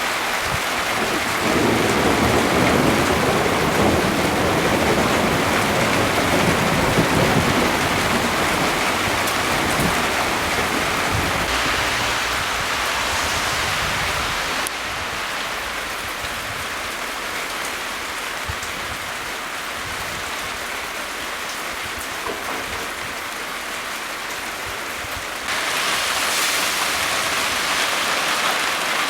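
Steady rain pattering during a thunderstorm, with a long, low rolling rumble of thunder through roughly the first ten seconds. The rain hiss drops abruptly about halfway through and grows louder again near the end.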